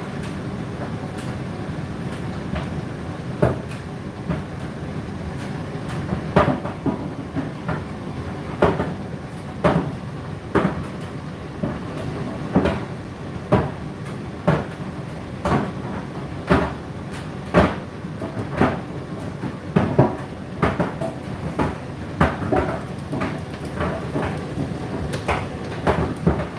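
Laundry machine drum turning under a steady motor hum, with clothes thumping inside about once a second, growing more regular from about six seconds in.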